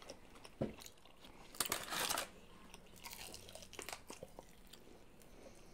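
Crunching bites into crispy fried chicken with chewing. The loudest crunch comes about two seconds in, followed by softer scattered crackles of chewing.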